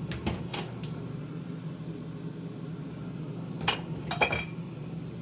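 Steady low hum of a refrigerator-freezer with a few light knocks and clicks from items being handled, and two sharper knocks about three and a half and four seconds in.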